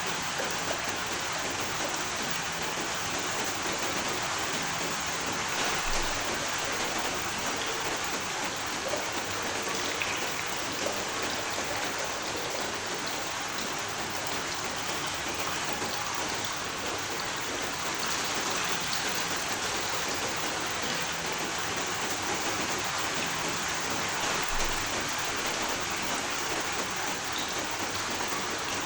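Steady rainfall, an even hiss of rain on a surface with scattered individual drops ticking through it.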